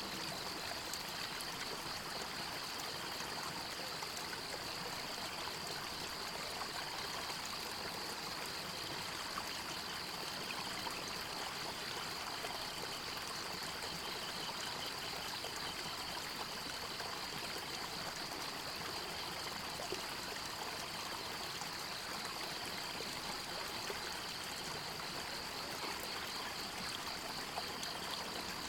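A forest stream running steadily with an even rushing and trickling of water. A steady high-pitched, rapidly pulsing buzz runs over it throughout.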